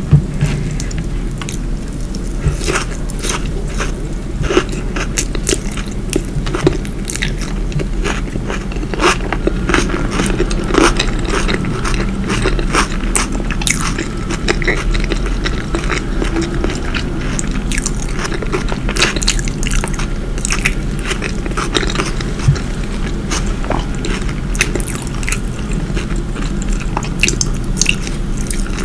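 Close-miked ASMR eating: a person chewing and biting food, with many small crunches and wet mouth clicks scattered throughout, over a steady low hum.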